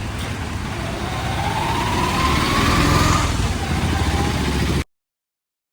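Motor vehicle engine accelerating over a low road rumble, its whine rising in pitch for about two seconds and growing louder. The sound cuts off suddenly near the end.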